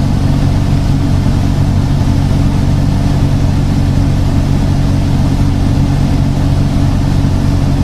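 A vehicle engine idling: a steady low hum that holds one even pitch.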